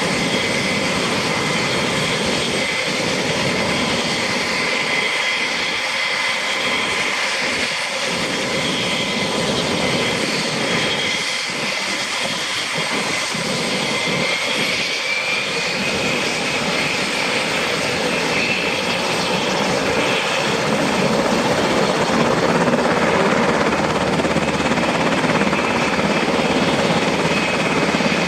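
Sikorsky UH-60 Black Hawk helicopter's twin turbine engines and rotor running with a steady high whine. About halfway through, the whine rises in pitch, and over the last third the sound grows louder and fuller.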